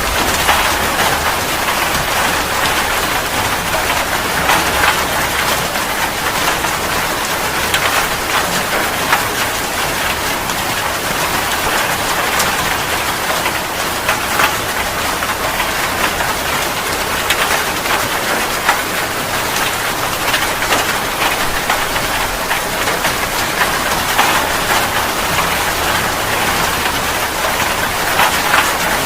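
Steady heavy rain falling on a surface, with scattered louder drops and splashes standing out from the constant hiss.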